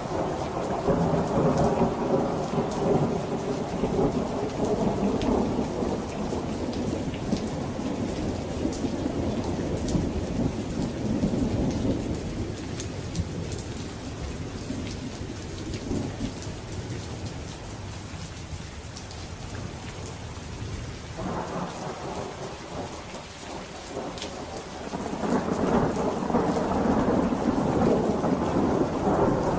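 Steady rain falling, with scattered sharp drips, under rolling thunder. The thunder rumble eases off through the middle, then builds again toward the end into a loud, long roll.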